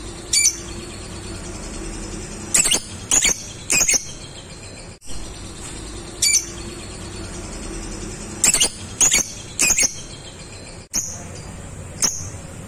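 Lovebird giving short, sharp, high-pitched chirps, some single and some in quick runs of three about half a second apart, the 'ngetik' ticking calls that tutor recordings use to rouse contest lovebirds.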